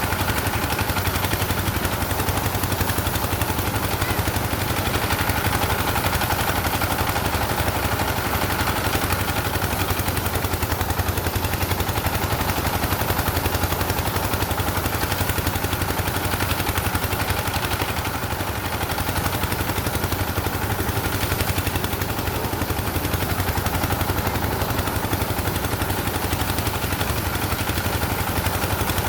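Engine running steadily with a rapid, even chugging that never lets up.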